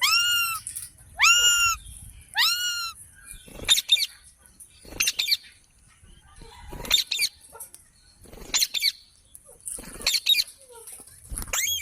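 Parrot calling: three long calls about a second apart, each rising in pitch and then held, followed by clusters of short, sharp screeches every second or so.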